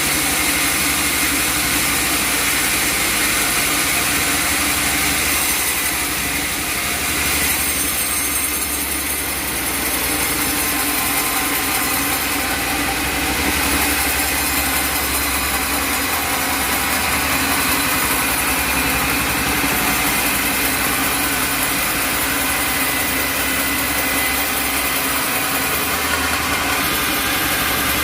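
Sawmill machinery running steadily: a constant mechanical drone with steady high tones over it, neither rising nor falling.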